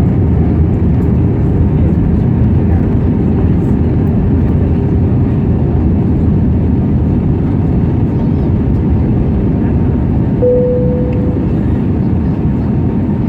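Steady cabin noise of an Airbus A320neo in flight: the even sound of airflow and engines heard from a passenger seat. A brief single tone sounds about ten seconds in.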